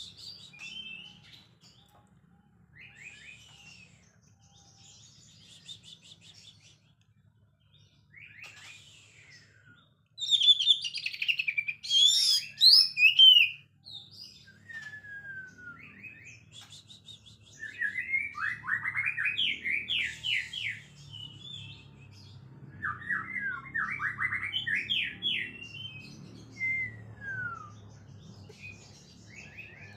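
Oriental magpie-robin (kacer) singing a varied song of whistles and slurred notes, with a loud burst of song about ten seconds in. Later come two fast chattering runs of rapidly repeated notes, the 'ngekek' variation.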